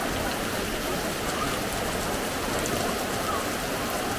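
Heavy tropical rain falling steadily onto a swimming pool and the surrounding paving, a continuous even hiss.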